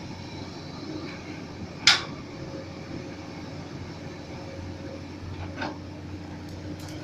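Komatsu PC200 excavator's engine running steadily, with one sharp, loud knock about two seconds in and two fainter knocks later on.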